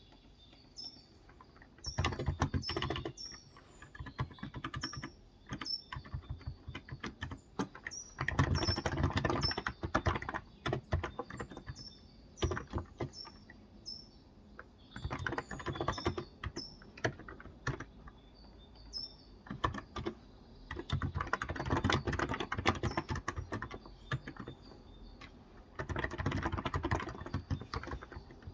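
Typing on a Cox Endeavour tenkeyless keyboard with 35 g capacitive (non-contact) switches, in bursts of rapid keystrokes a few seconds long with short pauses between. Birds chirp repeatedly behind the typing.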